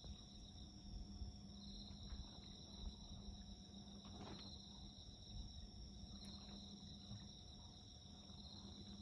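Crickets trilling steadily and faintly, with a few soft crackles from a wood bonfire.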